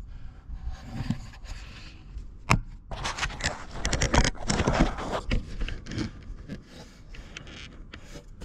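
Compressed air blowgun blowing debris out around the loader's fuel sending unit, a loud hiss that comes in uneven spurts for about three seconds and then in shorter blasts. A sharp click just before it starts.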